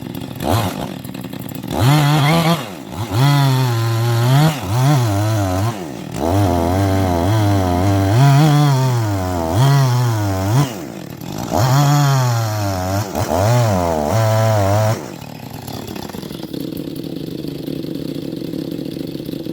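Chainsaw cutting into a log, revving in repeated surges with its pitch sagging and climbing as the chain takes load, then dropping back to a steady idle for the last few seconds.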